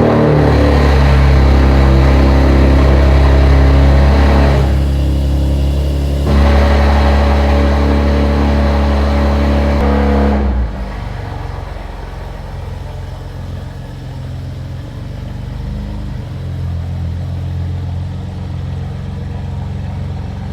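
A car engine, just started, running loudly at a high idle, then dropping to a lower, quieter idle about ten seconds in. It sounds really good and hella loud.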